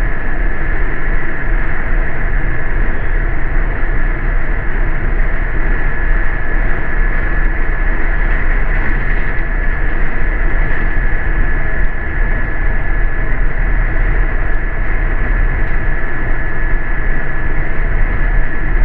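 Steady running noise inside a moving city bus: engine and road rumble with a constant high whine over it.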